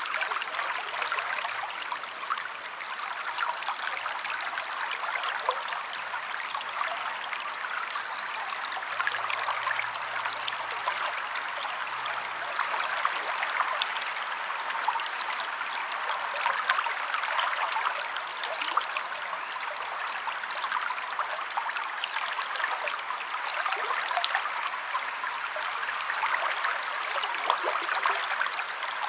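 River water flowing in a steady rush, with a few faint short bird trills high above it now and then.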